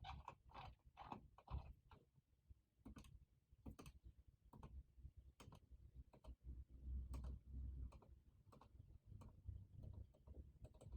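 Faint computer keyboard typing: irregular soft key clicks, a few per second, in a quiet small room.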